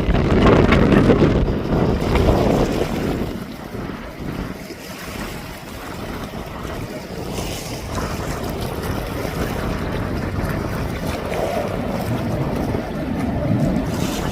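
Wind buffeting the microphone as a gusty, low rumble, strongest over the first few seconds.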